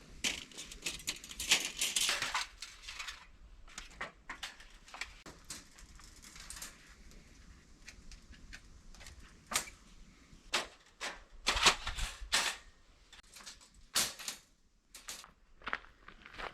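Irregular sharp clicks and knocks at an uneven pace, with rustling in the first two seconds or so.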